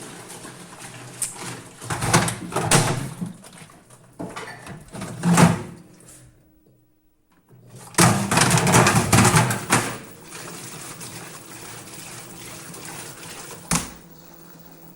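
Knocks and clatter of a 6-litre plastic bottle being handled at an LG washing machine, in irregular bursts. There is a sharp click near the end, then a low steady hum.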